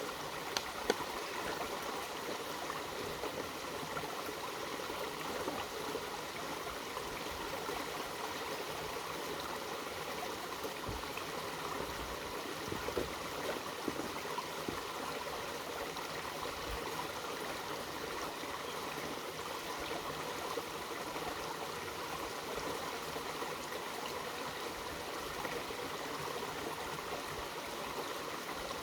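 Mountain valley stream flowing over rocks, a steady rushing and gurgling of water.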